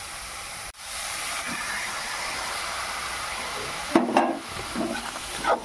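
Chopped tomatoes sizzling as they go into hot fried masala in a steel kadhai, a steady hiss that swells about a second in. Near the end a perforated steel spatula clanks and scrapes against the pan a few times as the tomatoes are stirred.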